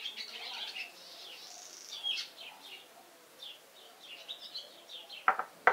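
Small birds chirping repeatedly in short, high, falling notes. Near the end come two sharp metal clicks, from hand tools and small steel valve parts knocking together.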